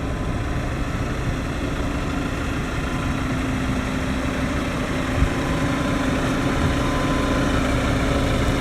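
Scania P400 truck's diesel engine idling steadily, with a single short knock about five seconds in.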